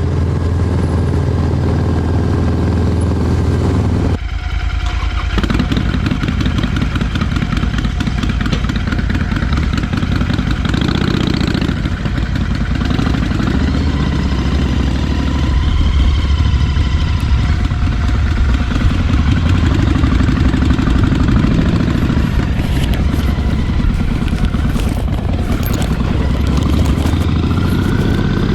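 Harley-Davidson motorcycle engine running on the road, its pitch rising and falling with the throttle, with a brief dip about four seconds in, as at a gear change.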